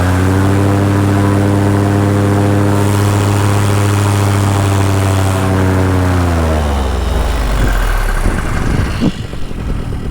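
Paramotor engine and propeller revved up to high power, held steady for about six seconds, then throttled back down to a low idle near the end: a run-up just before launch.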